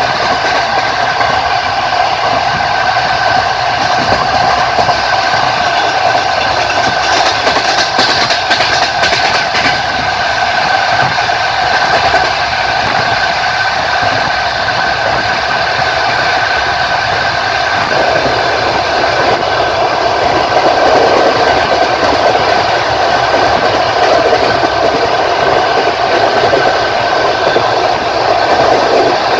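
Passenger train running along the line, wheels clicking over the rail joints over a steady rolling rumble and hum, heard from inside the carriage.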